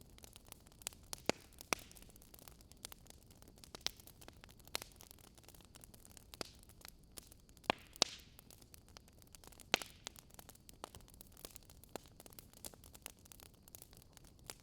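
Wood fire crackling: irregular snaps and pops over a faint steady hiss.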